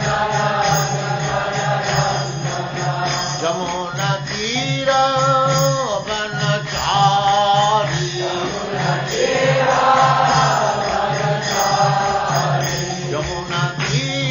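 Devotional chanting, a Vaishnava kirtan-style song, sung in long held and gliding notes over a steady low drone.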